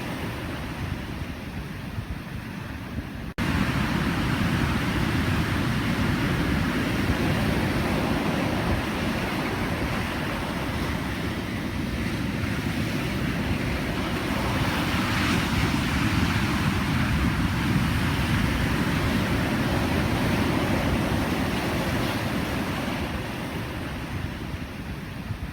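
Pacific Ocean surf: a continuous wash of breaking waves that swells and eases, loudest around the middle. About three seconds in the sound breaks off for an instant and comes back louder, like an edit splice.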